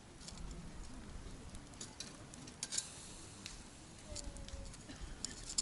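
Wood campfire crackling, with irregular sharp pops of burning wood, loudest just under three seconds in and at the very end.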